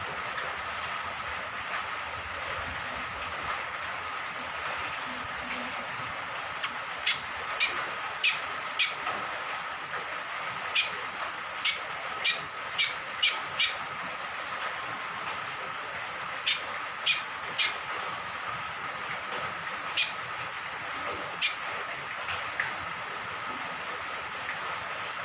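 Cucak kombok (kecial kombok), a honeyeater, giving short, sharp, high call notes in loose runs of three to six from about a quarter of the way in, over a steady hiss of rain or running water and a faint steady high hum.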